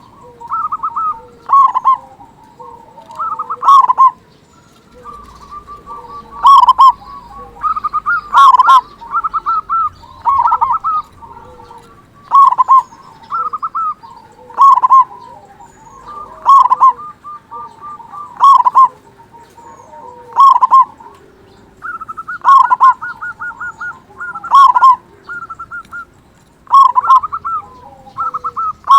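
Zebra dove (perkutut) singing its cooing song over and over, a phrase about every two seconds. Each phrase is a quick stutter of short notes ending in a louder coo, used as a lure call to set other perkutut calling.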